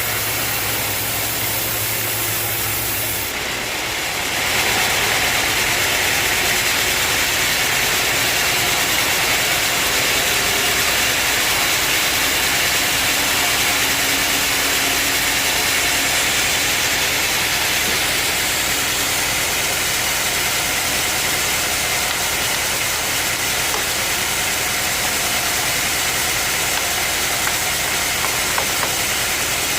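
Sawmill machinery running steadily with a loud hiss. About three and a half seconds in, a low hum drops out and the sound gets louder and brighter, then holds steady.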